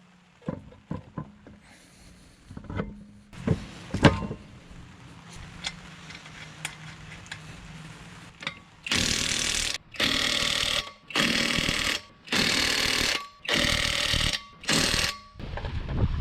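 A power wrench run in six short bursts, each under a second and about a second apart, as lug nuts are driven on and tightened. It follows a few knocks of metal parts being handled.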